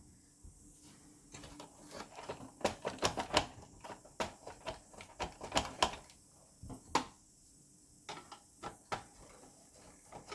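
Irregular sharp clicks and taps of plastic and metal projector parts being handled and pried apart during disassembly, coming in clusters with short quiet gaps.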